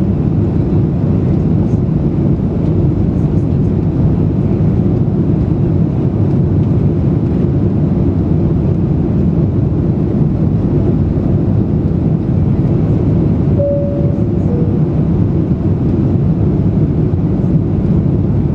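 Steady low roar of an Airbus A330-300's jet engines and rushing air heard inside the cabin during the climb after takeoff. A brief tone sounds about fourteen seconds in.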